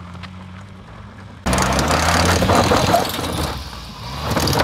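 Maruti 800's three-cylinder petrol engine running under load on a loose dirt track. About a second and a half in it gets much louder: the engine revs hard while the tyres scrabble and spin on loose gravel and dirt.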